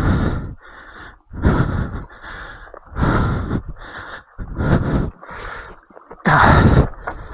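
A rider's heavy, rapid breathing from exertion: about ten breaths in quick succession, louder exhales alternating with softer inhales.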